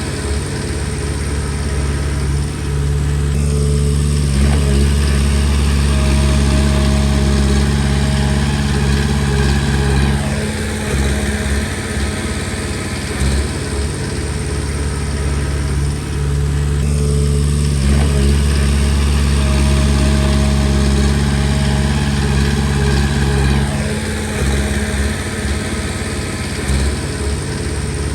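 Komatsu D20P bulldozer's diesel engine running and working in two cycles: twice it rises and holds louder for about seven seconds, as it does when pushing a load of stone, then drops back lower in between.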